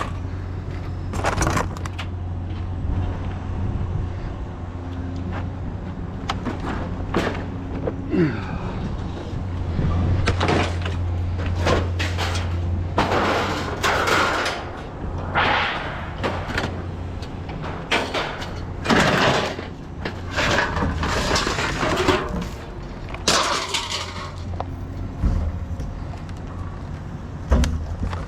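Scrap metal being picked through and tossed, with repeated clanks, knocks and rattling stretches, over a steady low engine hum.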